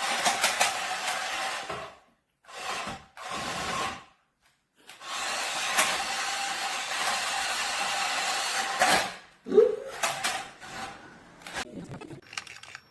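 Small electric motor of a remote-control toy monster truck whirring in several runs of a few seconds each, with a steady whine and abrupt stops between them. Near the end come a few knocks and clicks.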